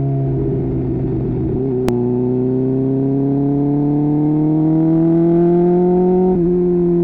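Supercharged 998 cc inline-four engine of a 2015 Kawasaki Ninja H2 on the highway. It runs steadily, and after a sharp click about two seconds in it accelerates, its pitch rising evenly for about four seconds. Near the end the pitch dips suddenly, then eases down.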